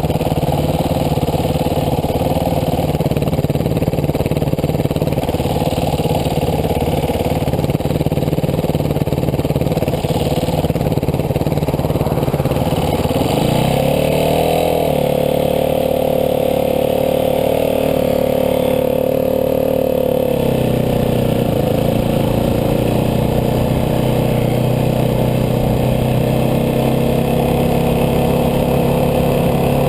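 Dirt bike engine running steadily. About halfway through its pitch rises, holds higher for several seconds, then drops back to the lower steady speed.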